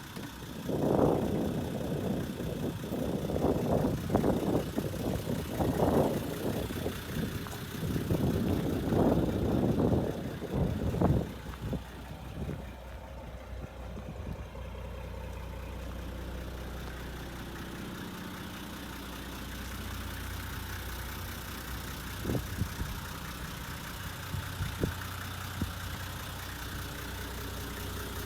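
Nissan Civilian bus's TD42 4.2-litre straight-six diesel running. For the first twelve seconds or so there are loud, uneven surges of noise, then it settles into a steady low idle with a few short knocks near the end.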